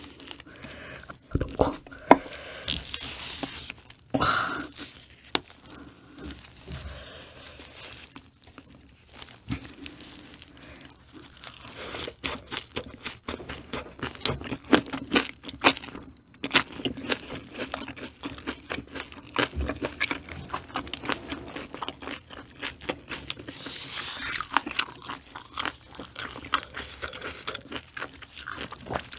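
Crunchy food being bitten and chewed close to the microphone, a dense run of irregular crunches and crackles.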